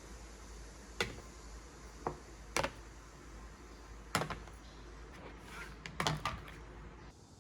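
A handful of sharp knocks and clicks at irregular intervals, like things being handled or set down, over a steady low hum.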